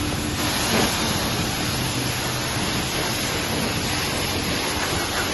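Car-wash water spray hitting a car, a steady rushing hiss.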